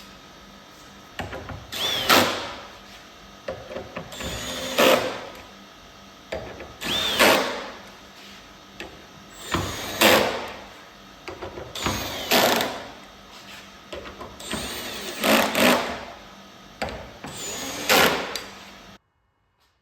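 A small power tool run in seven short bursts, about every two and a half seconds, each one swelling and then dying away; the sound cuts off abruptly near the end.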